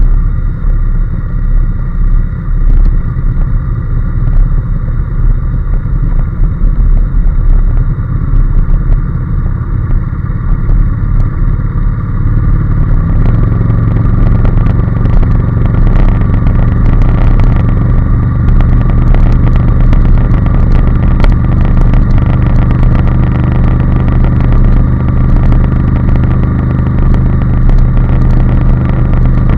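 Honda NC750S parallel-twin engine running at a steady pace under way, over a constant low rumble of wind and road. About 13 seconds in the engine note grows louder and holds there.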